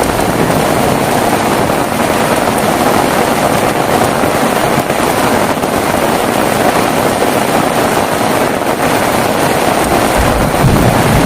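Heavy rain falling steadily with a dense hiss. A low rumble of thunder begins near the end.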